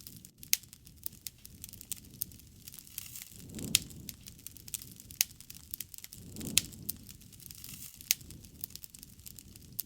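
Wood fire crackling, with irregular sharp pops and snaps. A low rushing swell rises and falls twice, about a third and two thirds of the way through.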